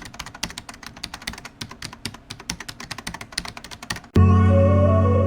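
Rapid computer-keyboard typing clicks. About four seconds in they stop and music cuts in abruptly with loud, sustained keyboard chords.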